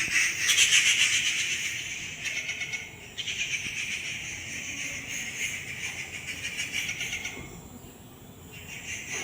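A flock of small birds chattering together in a dense chorus of rapid high chirps. It starts suddenly, is loudest for the first few seconds, then carries on more softly and fades away about seven seconds in.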